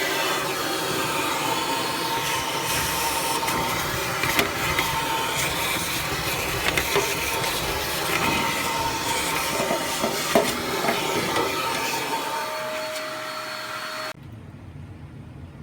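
Vacuum cleaner running steadily as it sucks rust, carbon and debris out of an old gas furnace, with scattered clicks and knocks. It switches off suddenly near the end.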